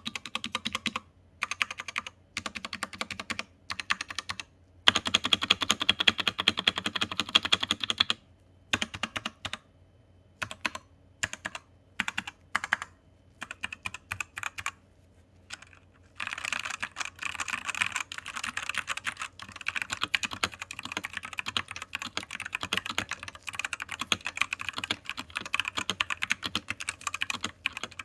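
Typing on a Royal Kludge RK84 mechanical keyboard with RK red linear switches and double-shot ABS keycaps. It starts as bursts of keystrokes with pauses between them, then becomes fast, continuous typing through the second half.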